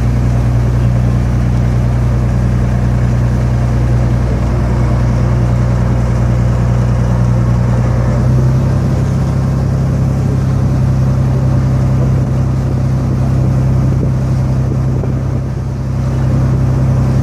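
Sightseeing boat's engine running steadily with a loud, low hum, its note shifting slightly about eight seconds in.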